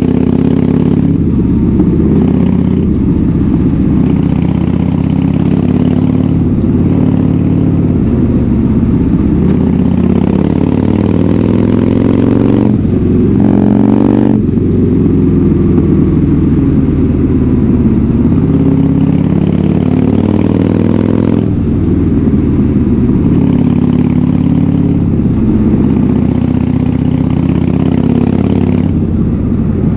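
Harley-Davidson Fat Bob's V-twin engine through a KessTech aftermarket exhaust, running loud and under way, its pitch rising and falling repeatedly as the throttle opens and closes.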